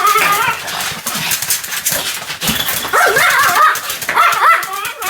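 Pomeranian barking in runs of quick, high-pitched calls: a run at the start, a quieter gap, then two more runs from about three seconds in.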